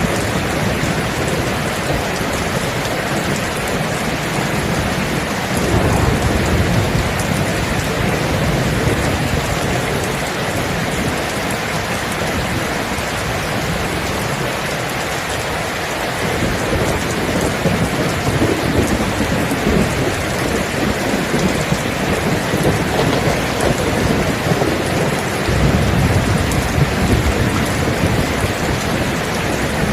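Steady heavy rain with low thunder rumbling in and out, swelling several times, loudest near the end.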